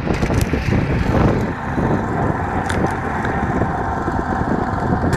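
Motorcycle engine running under way, with wind buffeting the microphone; the rumble eases a little about a second and a half in.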